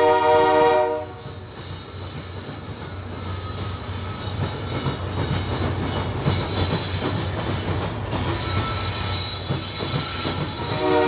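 A diesel locomotive's air horn sounds a chord and cuts off about a second in. Then comes the rumble of the passing freight train, locomotives and loaded crude-oil tank cars, with wheels clattering over the rail crossing diamond, slowly growing louder.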